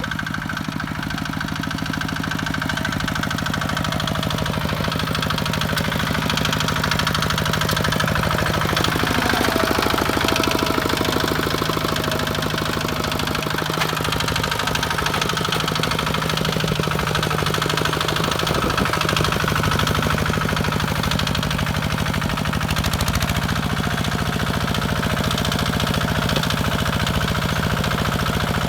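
Kubota walking tractor's single-cylinder diesel engine running steadily with a fast, even thudding beat, its note stepping up slightly about three quarters of the way through.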